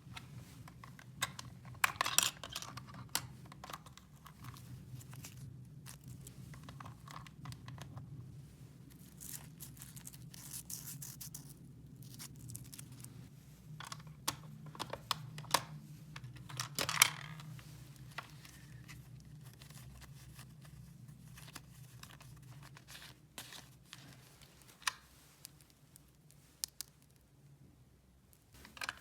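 Hands handling small objects and materials: scattered clicks and taps with crinkling, tearing-like rustles, the loudest about two seconds in and again a little past halfway, over a steady low hum.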